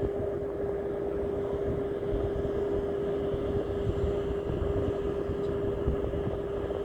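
Steady engine drone: a constant hum over a low rumble, unchanging throughout.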